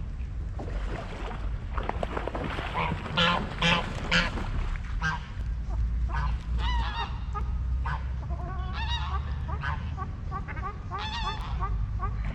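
Waterfowl calling in a run of short honking calls, loudest between two and four seconds in, then repeated calls through the rest, over a steady low rumble.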